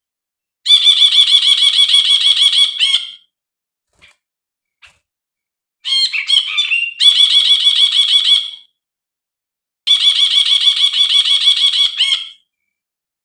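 Brinji (a bulbul) calling in three bouts of fast, evenly repeated chattering notes, each bout lasting about two and a half seconds with short pauses between. The middle bout opens with a brief, more varied phrase.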